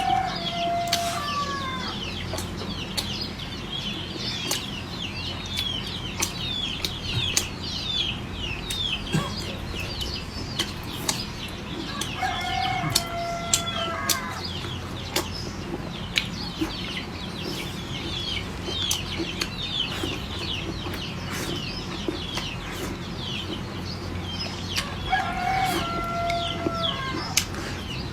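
Farmyard chickens: a rooster crows three times, about 13 seconds apart, over a constant stream of high, quick chirping calls. Scattered sharp clicks are heard throughout.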